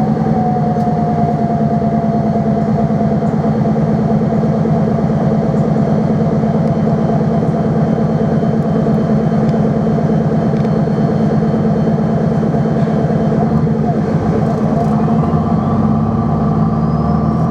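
Barcelona tram running: a steady rumble with a thin electric motor whine that slides down slightly in the first few seconds, and a higher whine that comes in near the end.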